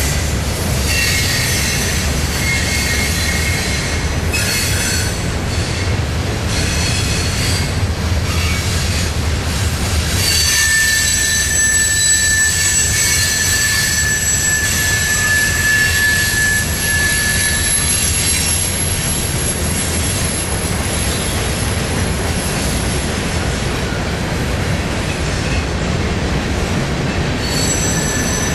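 Freight cars of a mixed freight train rolling past with a steady rumble of wheels on rail. Wheel squeal comes in short shrill snatches at first, then holds as steady high-pitched tones for about ten seconds from about a third of the way in.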